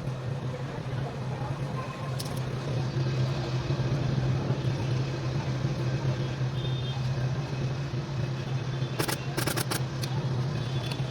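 A steady low machine hum, with a quick run of sharp clicks or taps about nine seconds in.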